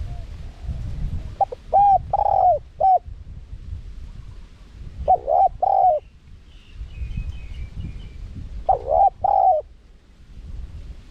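Spotted dove cooing: three short phrases of a few rounded notes each, about three seconds apart. Faint high chirps from another small bird come between the second and third phrases, over a low rumbling background.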